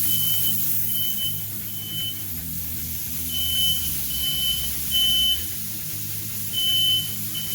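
Smoke alarm beeping in its high single-tone pattern: three short beeps, a pause, then three more, set off by smoke from a hot griddle. A steady low hum runs underneath.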